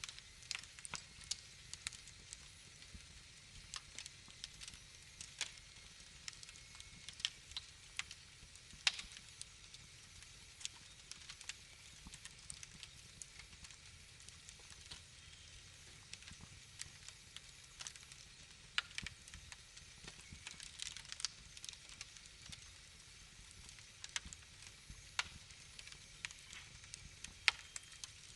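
Fireplace fire crackling, with irregular sharp pops over a faint steady hiss and a few louder pops scattered through.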